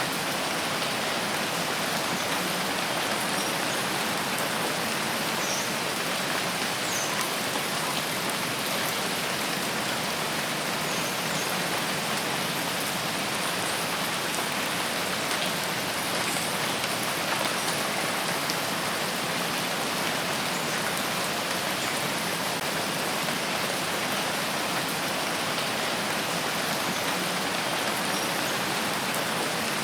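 Steady heavy rain falling in a forest, an even hiss of drops on foliage and ground that does not let up.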